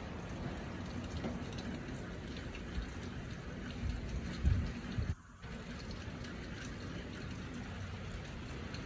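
Steady wet hiss of falling wet snow and rain. A low rumble swells briefly about four seconds in, and the sound drops out for a moment just after five seconds.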